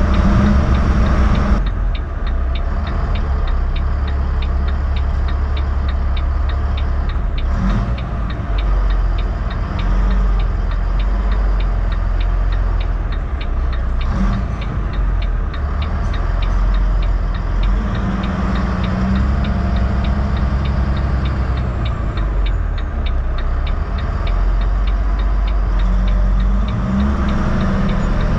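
Heavy truck driving down the road: a steady low engine and road drone, with a fast, even ticking that starts about two seconds in.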